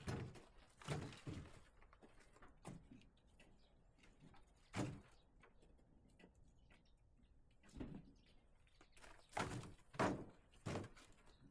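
Split firewood logs knocking against each other as they are handled and stacked: about nine irregular wooden knocks.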